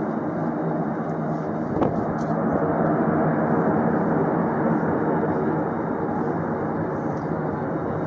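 Steady aircraft engine drone, even and unbroken, with a single sharp click about two seconds in.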